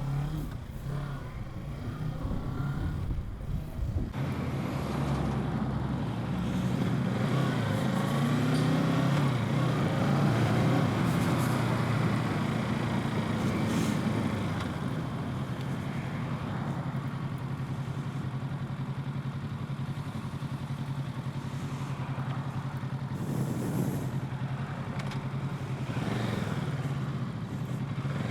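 Kawasaki Z650 parallel-twin engine running under way, heard from the rider's helmet with wind noise over it. The engine note rises and falls a little with the throttle.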